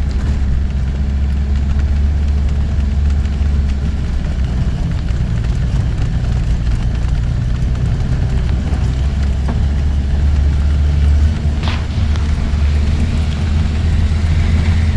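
Four-wheel-drive jeep engine running steadily under way, heard from inside the cabin as a continuous low rumble. A brief higher-pitched sound cuts through about twelve seconds in.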